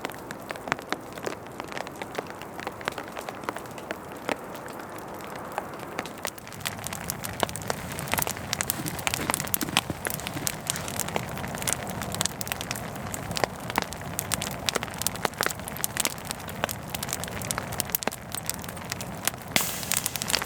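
Campfire of dead wood crackling with many sharp pops over a steady hiss of rain on the tarp; the hiss grows fuller and louder about six seconds in.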